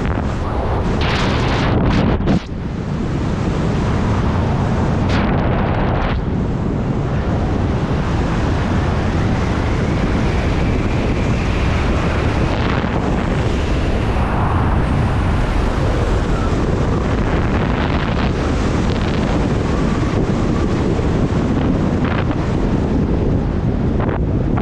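Loud, steady wind rushing over a skydiver's helmet-mounted camera microphone, with a brief dip about two seconds in.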